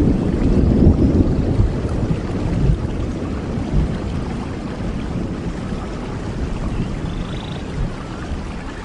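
Steady rain noise under a heavy low rumble that slowly dies away, with a few faint high chirps near the end.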